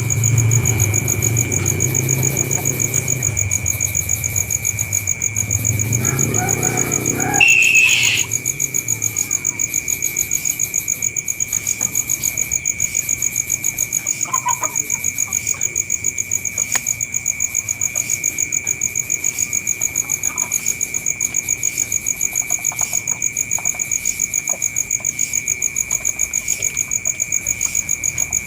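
Insects trilling steadily at a high pitch in a fast, even pulse. For the first seven seconds or so a low engine rumble runs underneath; it stops abruptly with a brief loud high squeal, leaving only the insects.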